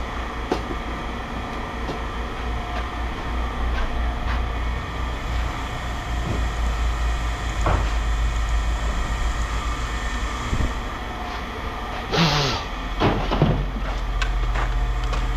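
A steady low engine hum with scattered knocks and clanks of items being handled, and a short loud hiss-like scrape about twelve seconds in.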